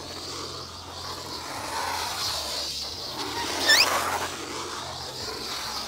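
Budgerigar giving a quick run of four or five short rising chirps just over halfway through, over a steady rushing noise and low hum.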